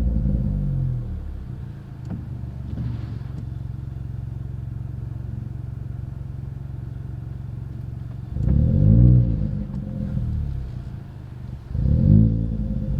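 Ford Fiesta 1.0 EcoBoost three-cylinder engine breathing through an aftermarket Cobra cat-back exhaust, idling steadily and blipped up and back down by the throttle. The first rev is falling away at the start, and two more come about eight and twelve seconds in.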